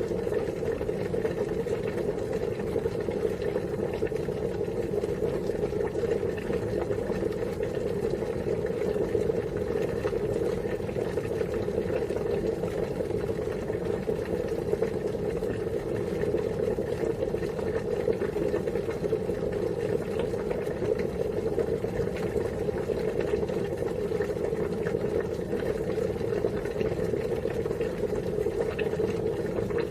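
Water boiling steadily, an even, continuous bubbling with no breaks.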